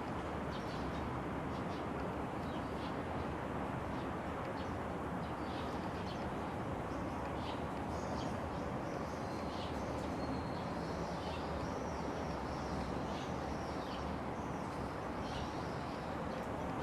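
Small birds chirping in short, repeated high notes, more busily in the second half, over a steady background rumble and hiss.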